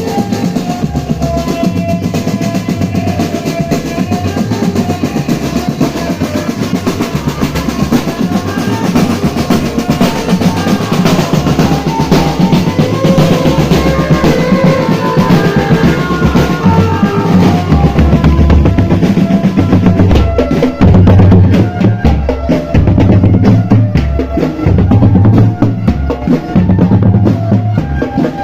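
Marching drum band playing: snare drum rolls and pounding bass drums, with a melody line carried over the beat.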